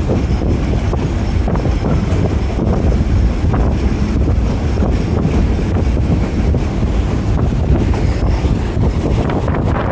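Train running with a steady low rumble, with strong wind buffeting the microphone.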